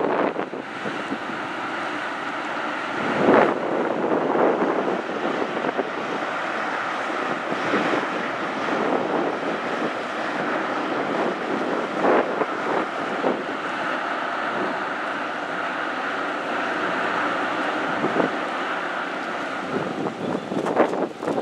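Wind buffeting the microphone over the steady rush of a ferry under way, with gusts surging now and then.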